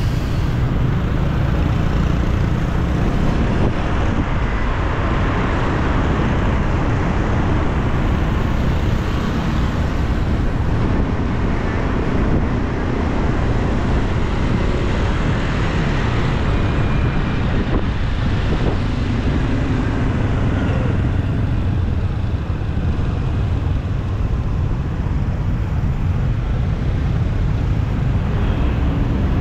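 Steady city traffic noise: a continuous rumble of passing vehicles with no distinct events standing out.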